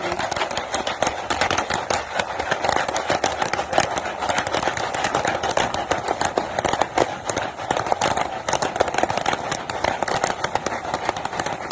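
Popcorn popping rapidly inside a Jiffy Pop foil pan over a campfire: a dense, continuous stream of pops.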